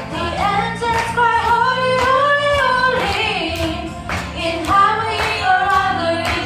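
Female voices singing a worship song over instrumental accompaniment with a steady bass line and light percussion.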